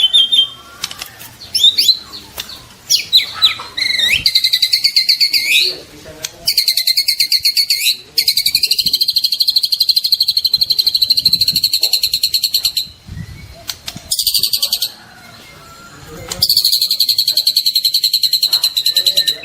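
Juvenile white-rumped shama singing loudly. A few short whistled, sliding notes come first, then a run of long, very rapid buzzing trills, each lasting one to several seconds with brief pauses between them.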